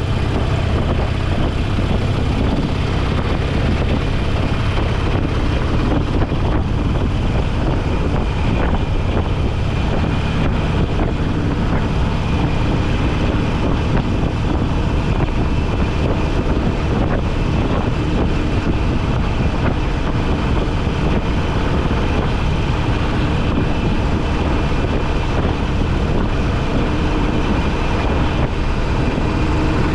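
Motorcycle engine running at a steady pace with wind rushing over the microphone.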